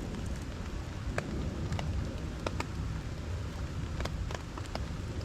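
Rain falling, with irregular sharp drop ticks over a steady low rumble.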